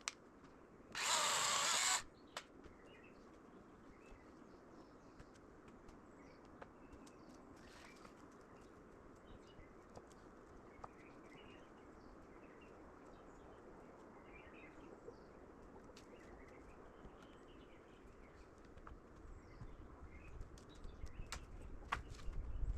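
Small birds chirping faintly in the background, with a loud burst of hissing noise lasting about a second near the start. Low knocks and thumps come in near the end.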